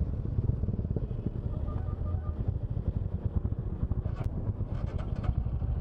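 Motorcycle engine running while riding: a steady low rumble of rapid exhaust pulses.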